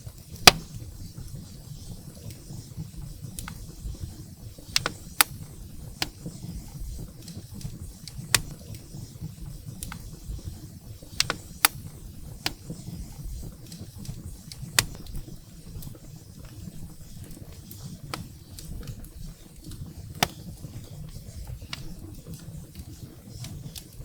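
Wood fire burning in a fireplace: a low steady rumble of the flames with irregular sharp crackles and pops from the firewood, the loudest pop about half a second in.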